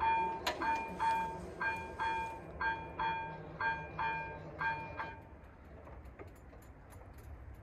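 Railway level-crossing warning bell ringing about twice a second in a steady, pitched ding, then stopping about five seconds in as the crossing's warning ends.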